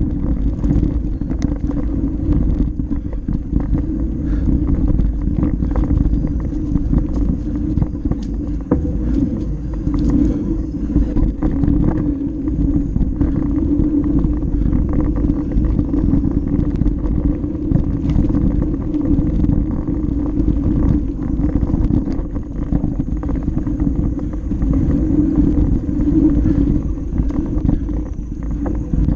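Mountain bike riding down a dirt flow trail, heard through a GoPro Session's microphone: steady wind rumble and tyre noise with frequent small clicks and rattles.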